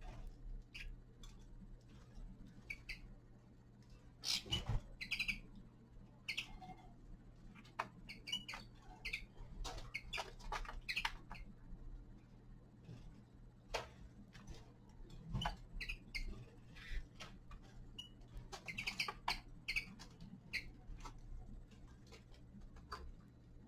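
Caged finches pecking and cracking seeds: many sharp, irregular little clicks, with short chirps now and then. A steady low hum runs underneath.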